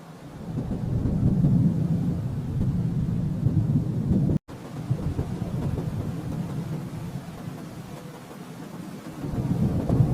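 Thunder rolling: a deep rumble swells up about half a second in and keeps rolling, cutting out abruptly for a split second a little after four seconds and swelling again near the end.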